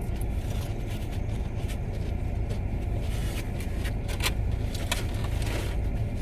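Steady low rumble of a parked car's idling engine heard inside the cabin, with scattered short crackles and clicks from eating and handling nachos and wrappers.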